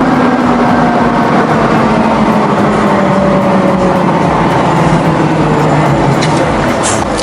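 Heavy logging truck's engine running under load, its pitch slowly falling over several seconds.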